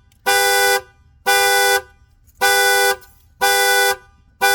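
Truck's alarm sounding through its horn: a loud two-note honk repeating about once a second, each blast about half a second long. It was set off by reconnecting the battery without the keys.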